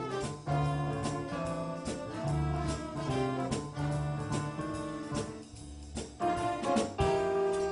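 Instrumental band music led by brass, in a jazz style: held horn notes and chords over a steady beat, briefly softer about five and a half seconds in.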